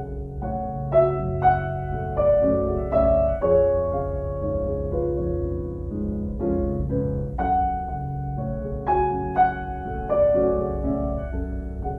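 Background piano music: struck notes that ring and fade, played at a slow, gentle pace.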